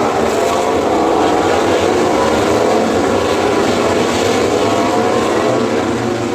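MotoGP racing motorcycles passing at high revs, several engine notes overlapping and sliding up and down in pitch.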